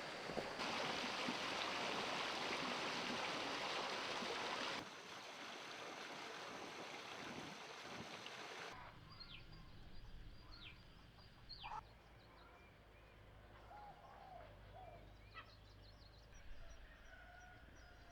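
Outdoor ambience: a steady rushing noise that changes abruptly partway through and then cuts off, leaving a quieter background with scattered bird calls, including a few quick falling chirps.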